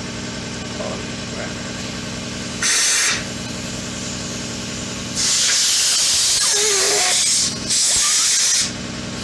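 Compressed-air blow gun blasting into the seam of a handlebar grip to loosen it: a short blast about three seconds in, then a long blast of about two seconds and a shorter one near the end. A steady low machine hum runs underneath.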